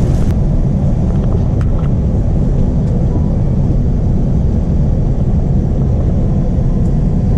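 Steady, loud low rumble of a vehicle, with no clear rise or fall in pitch.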